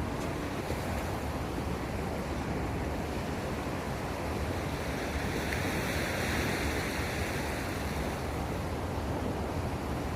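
Steady wash of seawater and wind noise on the microphone, swelling slightly about halfway through.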